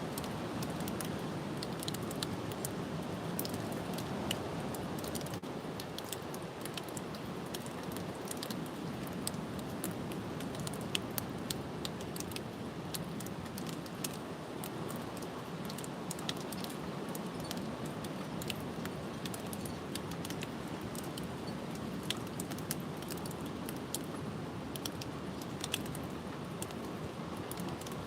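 Strong, gusty wind rushing steadily, with many small sharp ticks scattered throughout, as of rain or small debris striking a surface.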